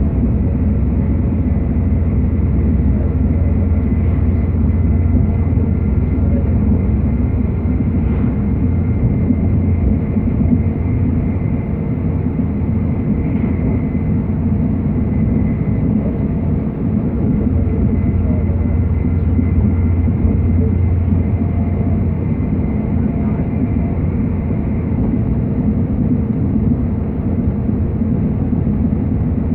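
Steady rumbling running noise of a moving train heard from inside the carriage, with a faint steady whine above it.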